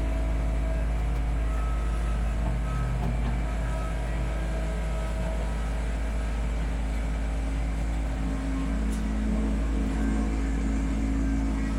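Kubota B2650 compact tractor's three-cylinder diesel engine running steadily, its note shifting slightly about eight seconds in.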